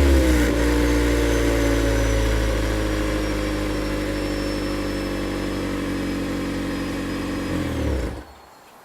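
Toyota C-HR Hybrid's 1.8-litre four-cylinder engine running through a Kakimoto Racing Class KR sport exhaust. It settles down in pitch from a rev just after the start, runs steadily, then winds down and shuts off about eight seconds in.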